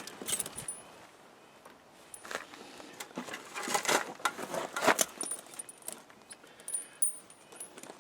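Studded steel tractor ice chains clinking and jingling as they are handled and loosened on the wheel, in irregular clusters of metallic clicks, loudest about four to five seconds in.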